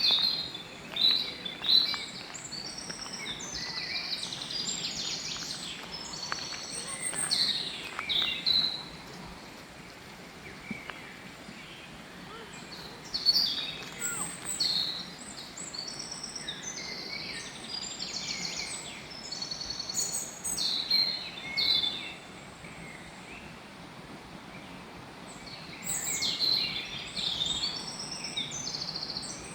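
Several birds singing and chirping in bursts of quick calls and trills over a steady background of outdoor noise, with pauses around ten and twenty-four seconds in.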